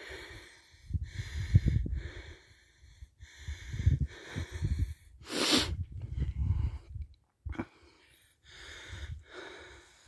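A man breathing hard and fast, panting after struggling through deep snow, about one loud breath a second. A low rumble runs underneath for the first seven seconds or so.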